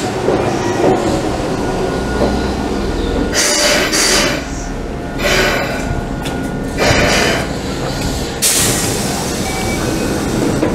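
Keihan 6000-series electric train rumbling to a stop at a platform, with short bursts of air hiss from about halfway through and a longer hiss near the end as the doors slide open.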